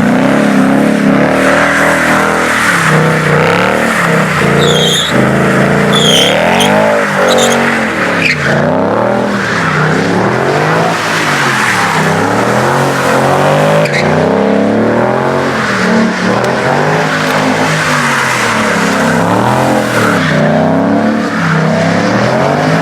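A car doing donuts: its engine revs rise and fall over and over, about every second and a half, over a steady hiss and squeal of spinning tyres. A few short high squeals come about five to seven seconds in.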